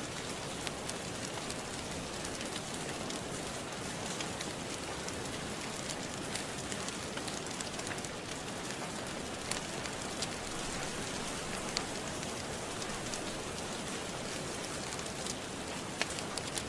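Steady rain falling, with scattered sharp crackles and pops from a wood fire, a few of them louder, about ten seconds in and near the end.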